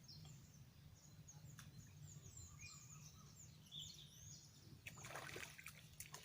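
Faint outdoor ambience: a small bird calling in a quick series of short descending chirps over a steady low hum. A few soft scuffs come near the end.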